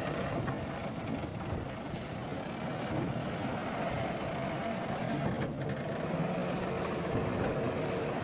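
Heavy diesel earthmoving machinery running steadily at work, with a couple of brief high hisses.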